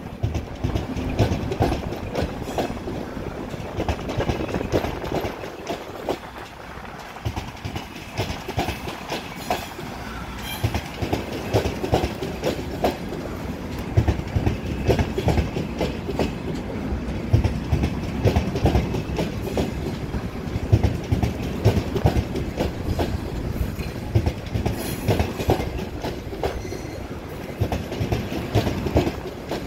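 Frecciarossa high-speed train rolling slowly past, its wheels clicking and clattering irregularly over rail joints and switches.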